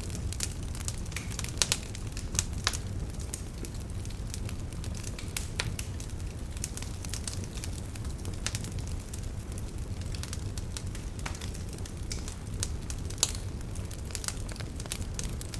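Wood fire burning in a fireplace: a steady low rumble of flame with irregular crackles and sharp pops from the burning logs, a few louder snaps standing out.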